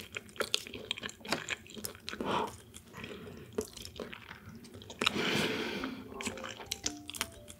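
Close-up chewing of a sweet shrimp nigiri, raw sweet shrimp over rice with gamtae seaweed, with many small mouth clicks. A few faint background music notes come in near the end.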